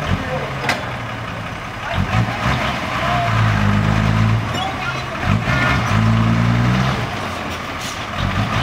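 Six-wheel dump truck's diesel engine running, its pitch and level rising twice in short revs, about three seconds in and again about six seconds in, with a few brief sharp clicks or hisses.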